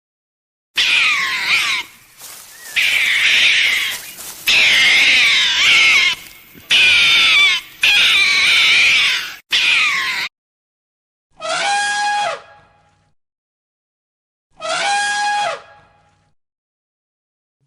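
Animal calls: a long run of shrill, wavering screeches with short breaks, then after a pause two separate falling calls.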